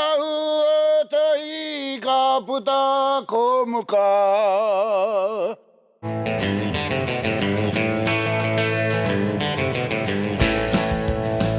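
A lone voice sings long held notes with a wavering vibrato, with short breaks between phrases. It stops after about five and a half seconds, and strummed guitar music starts abruptly about a second later.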